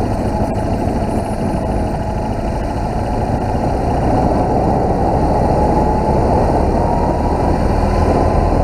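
BMW R1200GS flat-twin engine running while the motorcycle rides along a dirt track, heard through a chin-mounted camera. It gets a little louder about four seconds in.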